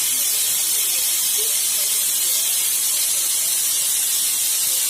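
Steady high hiss at an even level, with faint voices in the background.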